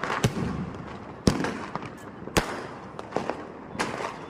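Firecrackers going off: four or five sharp bangs spaced about a second apart, the loudest about a second in and the next a second after that.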